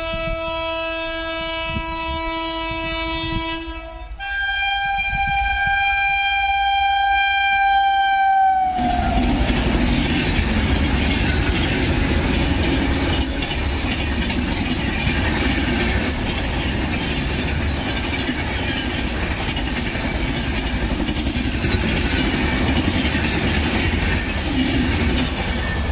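Train horn sounding a long low tone, then a higher tone from about four seconds in that dips slightly in pitch at its end. From about nine seconds the train goes past with a loud, steady rushing rumble.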